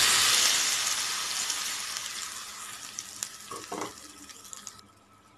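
Ground raw tomato-onion chutney paste hitting hot tempering oil in a kadai: a loud sizzle that fades steadily away over about five seconds, with a few light clicks about three seconds in.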